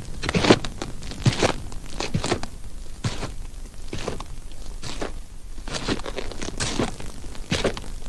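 A series of irregular crunching knocks, roughly one every half second to a second.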